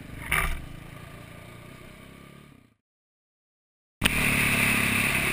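Motorcycle engine running, with a short loud clatter about half a second in, then fading away to silence. About four seconds in, loud riding noise of wind rush and engine cuts in suddenly.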